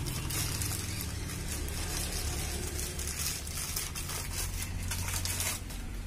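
Bubble wrap and plastic packaging being pulled and torn off a new scooter cylinder kit: irregular crackling and rustling, over a steady low hum.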